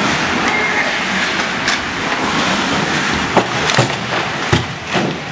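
Ice hockey play: a steady hiss of rink noise with several sharp knocks, about five of them in the second half.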